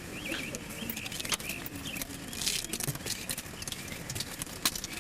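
A bird chirping, a run of quick wavering high notes that fades out about a second in, with scattered clicks and rustling.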